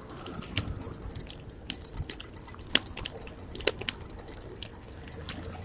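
Electric bicycle being ridden, with irregular light clicks and rattles from the bike and its mounted camera over the road surface.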